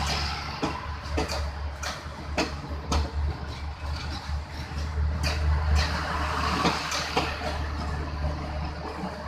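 A vehicle running: a steady low rumble with frequent knocks and rattles over it.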